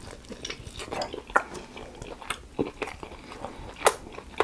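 A man biting and chewing a sweet and spicy garlic chicken wing: irregular mouth clicks and smacks, with a sharper snap about a second and a half in and another near the end.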